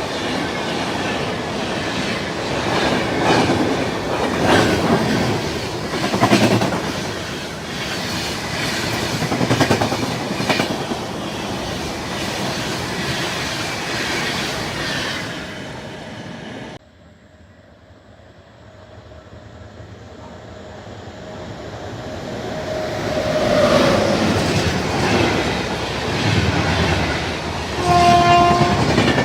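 A train passing at speed, its wheels clicking over the rail joints, cut off suddenly after about 17 seconds. Another train is then heard approaching, growing louder, and sounds one short horn blast about a second long near the end.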